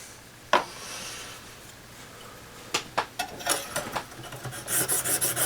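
A few light clicks and taps, then from about four and a half seconds in, quick back-and-forth rasping strokes of a Lansky sharpening system's fine hone stone across a steel saw-blade edge.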